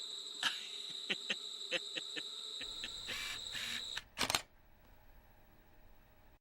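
Insects trilling steadily at a high pitch, with a string of light clicks over it. About four seconds in there is a loud double click and the insect sound cuts off, leaving a faint low hiss.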